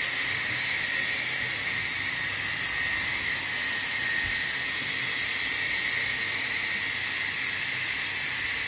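Dyson hair dryer blowing at a steady speed: a strong rush of air with a thin, high-pitched motor whine above it.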